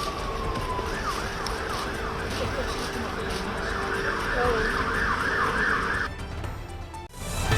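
Emergency vehicle siren in a fast yelp, its pitch sweeping up and down about two to three times a second, over a steady low hum. It cuts off about six seconds in.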